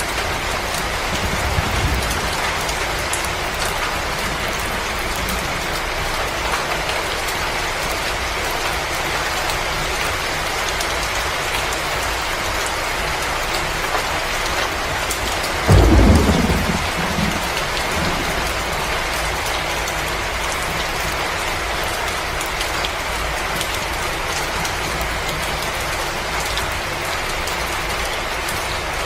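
Steady storm ambience: a dense, even hiss like heavy rain or snowstorm wind. A deep rumble swells up about sixteen seconds in and dies away within two seconds.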